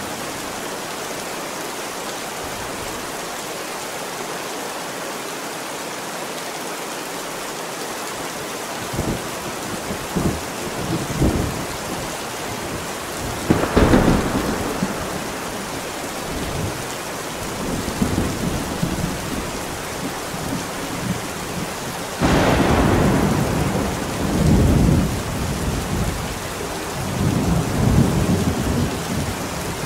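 Steady rain with thunder. A few low rumbles come about nine to eleven seconds in, a sharp clap near the middle, and a sudden loud clap about two-thirds through that rolls on for several seconds.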